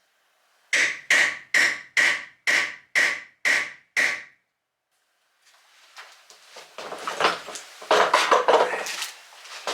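A hammer striking eight times at just over two blows a second, each blow with a short metallic ring. After a brief pause comes irregular clattering and knocking of tools and parts being handled, loudest near the end.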